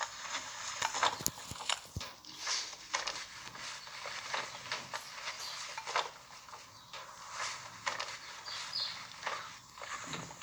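Footsteps crunching irregularly through dry leaf litter and twigs, with a couple of short high chirps.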